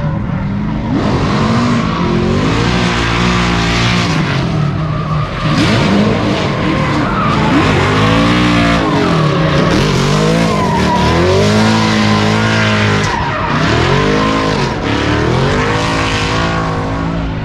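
Drift car engine revving up and down through a slide, its pitch swinging repeatedly, with tires skidding and squealing on the pavement.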